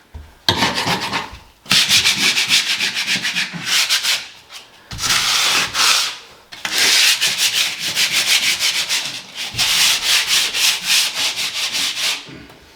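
Hand sanding a painted ceiling with 60-grit sandpaper: quick back-and-forth strokes in runs of one to five seconds, with a few short pauses between runs.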